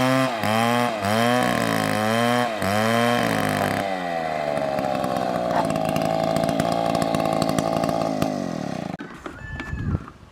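Two-stroke chainsaw cutting wood, its engine note dipping and recovering about every half second under load, then running steadily for several seconds. It cuts off about nine seconds in, leaving a few scattered cracks and knocks.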